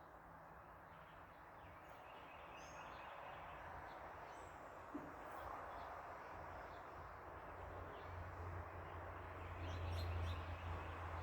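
Outdoor backyard ambience: birds chirping in short scattered calls over a rising wash of traffic noise, with a passing vehicle's low hum swelling to its loudest about ten seconds in.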